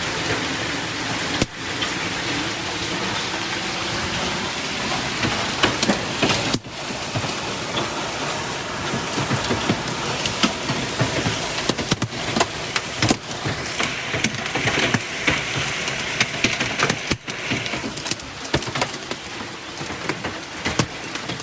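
Hail and heavy rain pelting a car: a dense hiss of rain with many sharp ticks and knocks of hailstones striking the bodywork, growing busier in the second half. The hail is denting the car all over.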